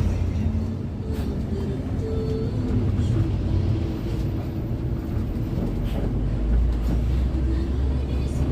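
Steady low rumble of a coach's engine and road noise, heard from inside the passenger cabin while under way.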